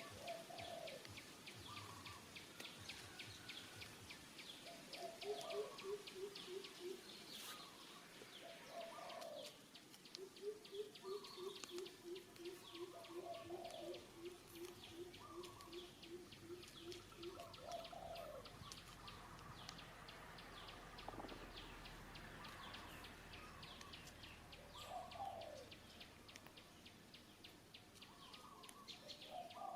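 Faint birds calling outdoors. Short calls come every few seconds, with two runs of quick, low pulsed notes (about two or three a second) and a fast, high chirring throughout.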